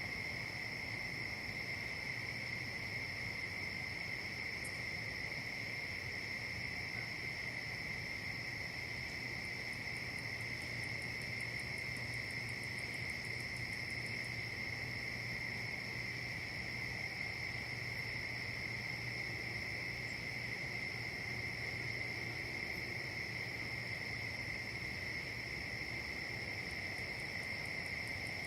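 Insect chorus: a continuous, steady high-pitched trill that holds at an even level.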